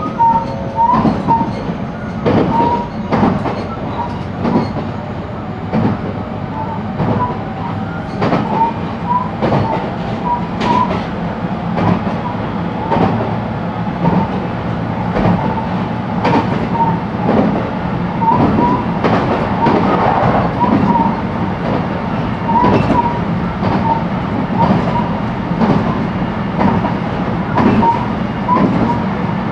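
Running sound inside a JR West 223 series electric train's motor car at speed: a steady rumble of wheels on rail, with sharp clacks every second or two as the wheels cross rail joints.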